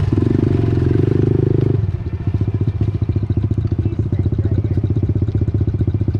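Pit bike engine running, pulsing at higher speed for the first couple of seconds, then dropping back to a lower, steady speed.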